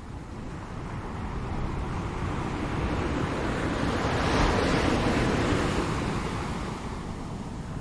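Ocean waves breaking on the shore: one wave swells to a peak of surf hiss about halfway through, then washes back and fades.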